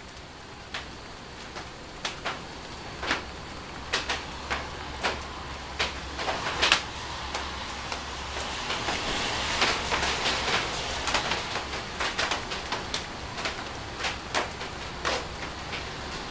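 Thunderstorm rain falling, with big drops landing close by as irregular sharp ticks, a few a second, over a steady hiss. The rain gets heavier about halfway through.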